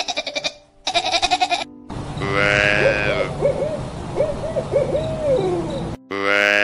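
A series of animal calls. First come two short bursts of rapid pulsed chattering, then one long call that wavers up and down in pitch, and near the end a new, louder call held at a steady pitch.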